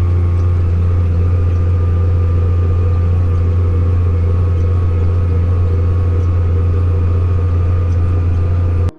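Tractor engine running steadily while pulling a field cultivator, a deep even drone that cuts off suddenly just before the end.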